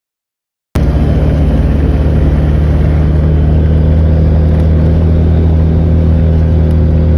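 Dead silence for about three-quarters of a second, then a motor vehicle's engine cuts in abruptly, loud and running at a steady pitch.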